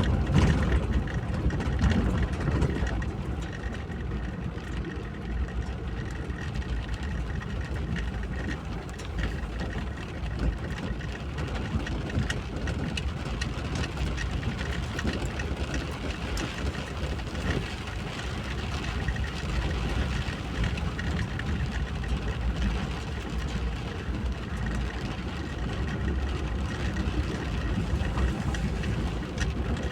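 A car driving steadily: continuous engine and road noise, a little louder in the first couple of seconds.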